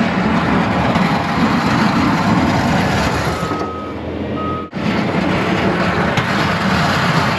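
A snow plow truck runs with a dense, steady rumble of engine and plowing noise. A reversing alarm beeps twice around the middle. The sound drops out sharply for an instant about two-thirds of the way through.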